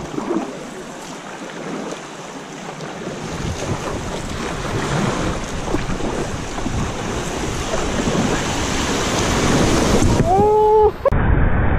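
Rushing river water with wind buffeting the microphone, growing steadily louder as the kayak moves through fast, high water. Near the end a short pitched call bends in pitch, then the sound cuts abruptly to a duller, muffled rush.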